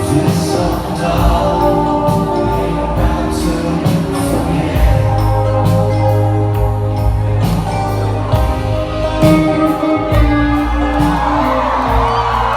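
A live rock band playing a mid-tempo song: guitars, bass and a steady drum beat, with singing, recorded from the audience in a hall.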